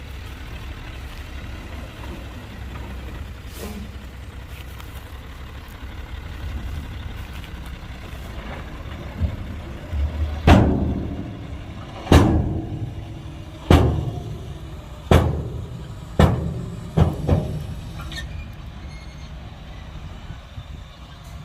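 Heavy diesel machinery engine running steadily. About halfway through comes a run of about seven loud bangs, each ringing out, roughly one every second or so.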